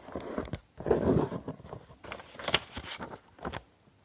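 Sheet of A5 copy paper being folded and creased by hand: irregular rustles and sharp crackles, the loudest about a second in.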